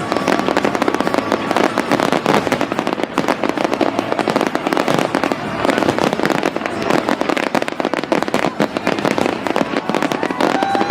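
Fireworks display: a dense, continuous rapid-fire string of bangs and crackles from aerial shells bursting, with no let-up.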